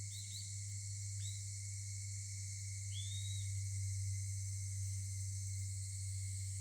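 A steady, high insect chorus over a low steady hum, with a few short chirps in the first half.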